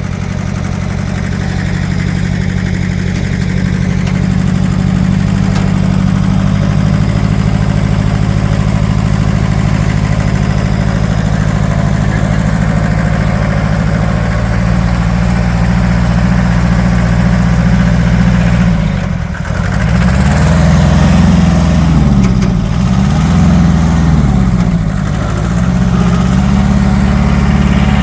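Tractor engine running under load while towing a dead truck, steady at first; after a brief dip about two-thirds of the way through, its pitch rises and falls several times as the throttle changes.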